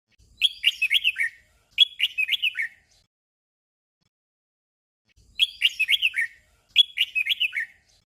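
Red-whiskered bulbul song: a short warbled phrase sung twice in quick succession, the 'doubled' (เบิ้ล) pattern, and the same pair repeated about five seconds later.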